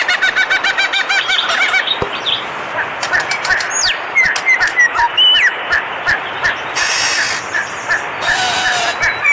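Several birds chirping: a fast run of repeated calls for the first two seconds, then scattered short chirps and a few gliding whistled notes. Two brief rushing, hissy noises come about seven and eight and a half seconds in.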